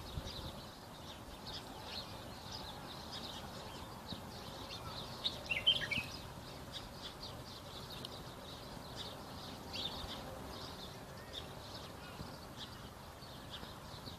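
Small birds chirping over and over, with one louder call falling in pitch about six seconds in.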